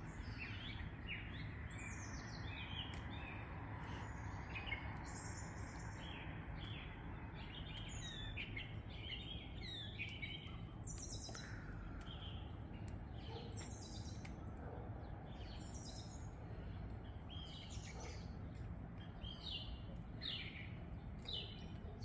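Several songbirds calling at once: many short, high chirps and trills overlapping throughout, over a steady low background rumble.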